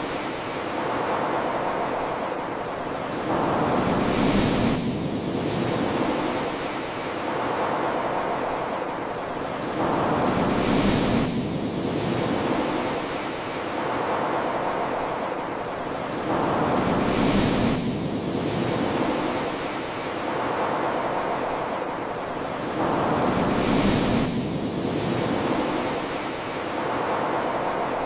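Dense rushing water noise that swells and eases in a regular cycle about every six and a half seconds, with a bright hiss at the peak of each swell.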